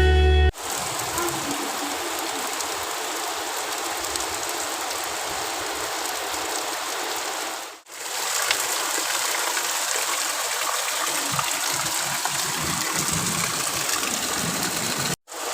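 Heavy rain pouring with rainwater running off, a dense, even hiss that breaks off briefly about eight seconds in and again near the end.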